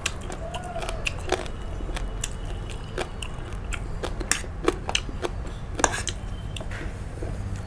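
A person eating close to the microphone: irregular sharp bites and chewing clicks, with a steady low hum underneath.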